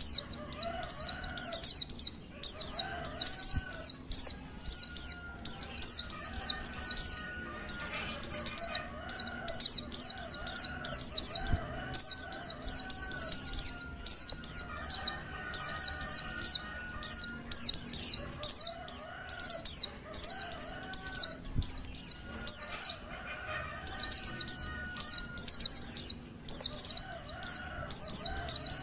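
Female white-eye (pleci) calling: rapid runs of high, thin, falling chirps in bursts about a second long, repeating with short gaps throughout, over fainter, lower warbling.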